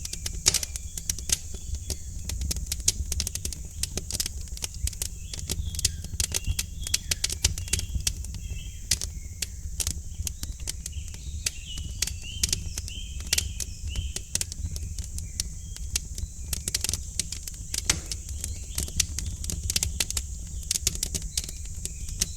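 Wood fire crackling with many irregular sharp pops and snaps over a steady low rumble, with small birds chirping in the background through the middle of the stretch.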